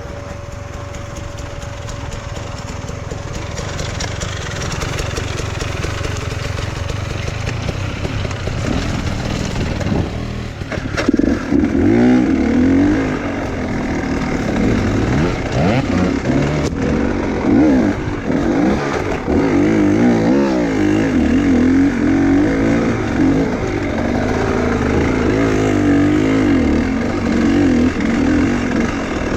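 Enduro motorcycle engine, running low and steady for about the first ten seconds, then revving up and down in quick, uneven blips, louder, for the rest of the time.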